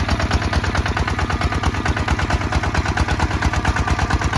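Kubota ZT155 DI single-cylinder diesel engine of a two-wheel walking tractor chugging steadily with a rapid, even beat, working under plowing load.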